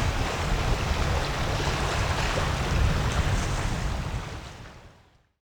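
Wind buffeting the microphone, a gusty low rumble over a steady rushing noise, fading out to silence near the end.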